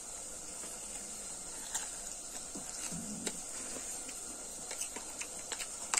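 Close-miked chewing of a mouthful of leaf wrapped around small round fruits, with scattered soft mouth clicks and smacks and a brief low hum about three seconds in.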